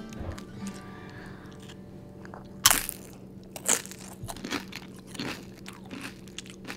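A person biting into a crunchy chip dipped in queso: one loud crunch about two and a half seconds in and another about a second later, then chewing with many smaller crunches.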